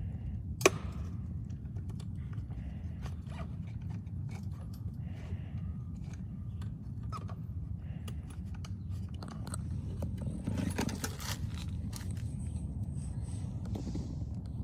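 Plastic clicks and scrapes of an air filter and its cradle being worked back into a dirt bike's airbox. There is one sharp snap about a second in and a busier stretch of scraping near the end, over a steady low rumble.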